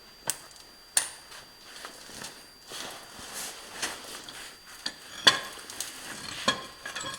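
Steel pins being pulled from a compact tractor's three-point hitch arms: a few sharp metal clinks and knocks, the loudest a little after five seconds in, between softer scraping and handling noise.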